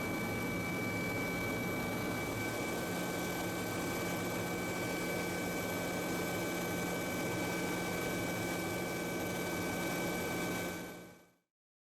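Steady machine drone with several held tones over an even noise, fading out quickly near the end.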